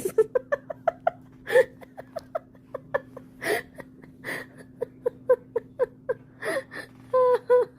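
A person laughing hard: rapid short "ha" bursts broken by sharp breaths in, ending in a drawn-out whining note.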